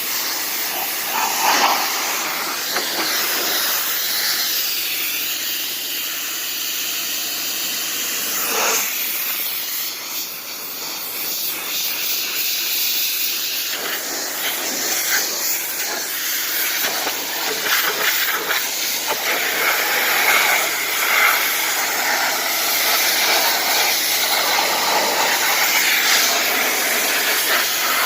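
A pressure washer's spray jet hissing steadily as it blasts the body of a car, its sound changing every few seconds as the spray moves over different surfaces.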